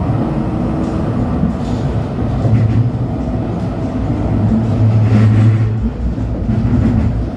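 LHB TW2000 light-rail car running on track: a steady rumble of wheels and running gear, with a low hum that swells twice, about two and a half seconds in and again around the fifth second.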